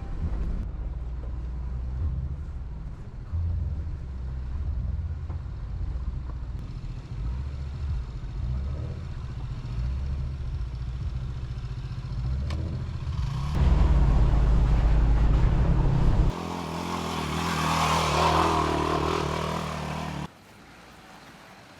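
Off-road vehicle driving up a rough dirt mountain road: low engine and road rumble that changes abruptly several times, louder with a broad rushing noise in the last third, and dropping off suddenly just before the end.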